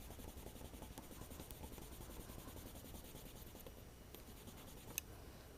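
Faint rubbing and scratching of fingers smoothing a strip of double-sided adhesive onto a phone battery, with a single sharp click about five seconds in.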